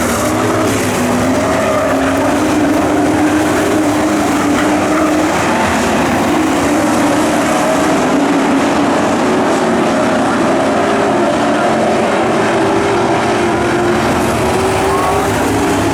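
Engines of racing pro trucks running continuously around a dirt oval, a steady loud drone whose pitch rises and falls gently as they race.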